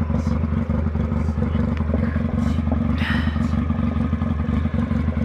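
TRUVA TR250-4 motorcycle engine running steadily at idle, with a brief sharper sound about three seconds in.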